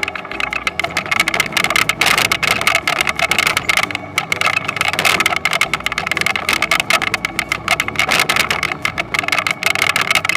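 Toyonoki potato harvester running steadily: an engine drone under a continuous fast rattling clatter.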